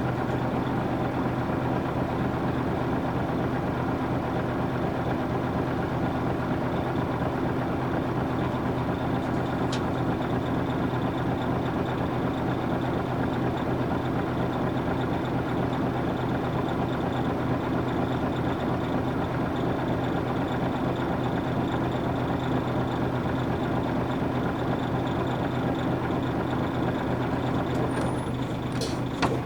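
Nissan Diesel U-UA440 city bus's PF6 diesel engine running steadily at an even pitch, heard from inside the bus, with a faint high whine under it. A couple of short sharp sounds come near the end.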